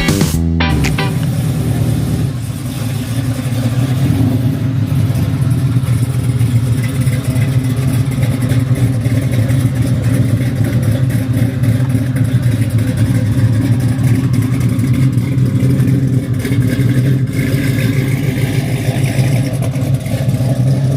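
A car engine running loudly at a steady idle, its exhaust note low and even.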